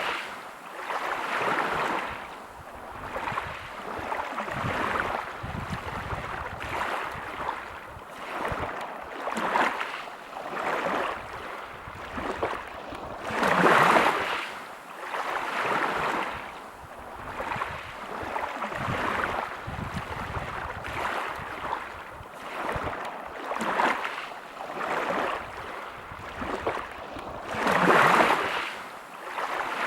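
Waves breaking on a pebble beach: a steady wash of surf that swells and fades every second or two, with a bigger wave breaking about halfway through and again near the end.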